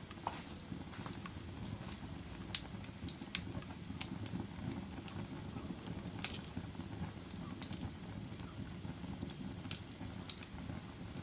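Fire crackling: a steady low rumble of burning with sharp pops at irregular intervals, the loudest about two and a half seconds in.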